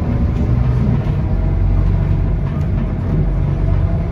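Scania K230UB city bus under way, heard from inside the cabin: a steady, loud diesel engine drone with tyre and road noise.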